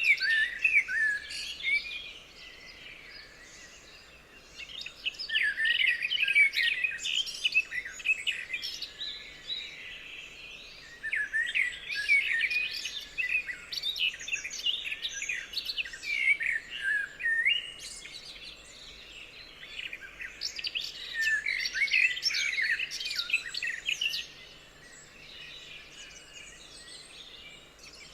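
Songbirds chirping and singing together, in bouts of quick, warbling phrases with quieter pauses between them.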